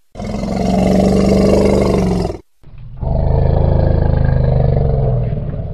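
Mammoth roar sound effect: two long, low roars, the second starting after a brief pause and tailing off near the end.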